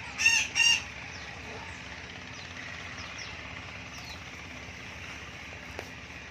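Two short, loud bird squawks in quick succession right at the start, then faint high chirps over steady background noise.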